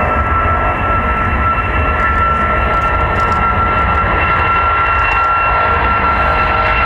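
Jet airliner engines running loud and steady, with a constant high-pitched whine over a deep rumble.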